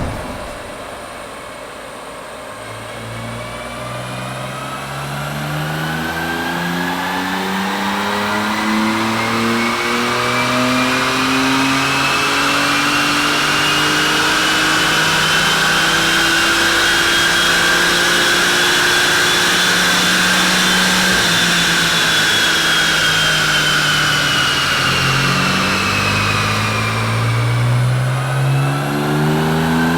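Stock BMW F80 M3's twin-turbo inline-six, on its stock exhaust, on a chassis dyno: it revs up steadily through one long pull in gear, together with a high whine, for about twenty seconds. It then winds back down, and a new pull starts climbing near the end.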